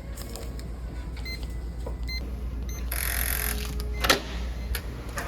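Electronic door lock on a shower room: two short beeps, then a brief whirring hiss and a sharp clunk, over a steady low hum of the building.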